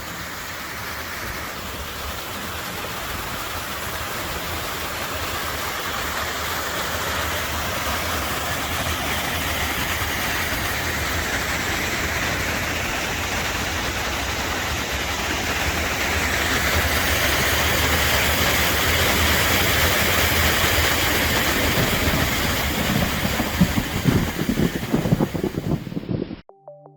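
Steady rush of flood-swollen river water that grows gradually louder, with irregular low knocks near the end before the sound cuts off suddenly.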